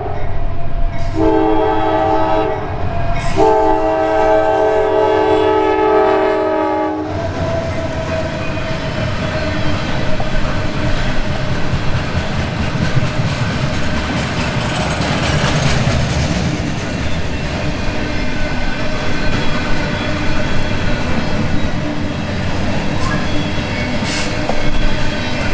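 Horn of a Norfolk Southern GE AC44C6M locomotive sounding three blasts, the last one long, which stops about seven seconds in. After that comes the steady rumble and wheel clatter of loaded coil steel cars rolling past on the rails.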